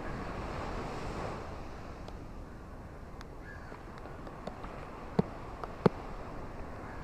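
A steady rushing background noise, with two sharp clicks about five and six seconds in.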